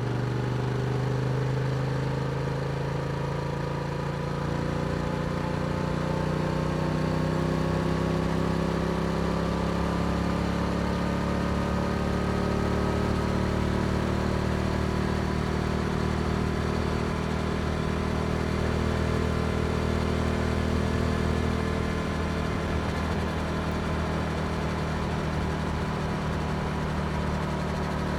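Yamaha R7 parallel-twin engine through an Akrapovic exhaust, pulling in one gear. Its pitch rises slowly for about the first half, then holds steady at cruising revs.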